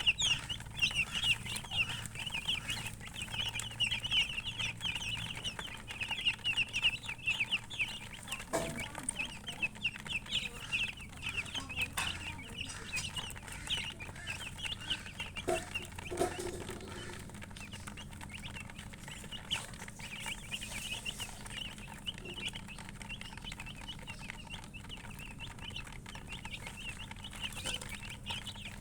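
Baby chicks peeping continuously: many short, high chirps overlapping, growing fewer in the second half. A few soft knocks sound in the middle.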